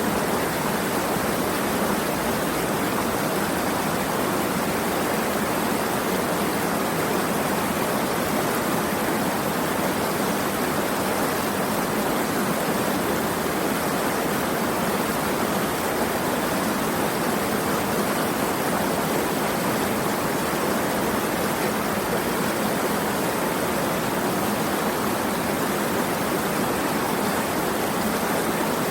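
Steady, unbroken rush of flowing water, strongest in the middle and low-middle range, with no separate splashes or drops standing out.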